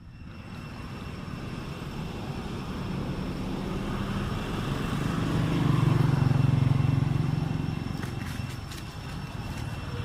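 A motor vehicle's engine going past: its steady hum grows louder to a peak about six seconds in, then fades away.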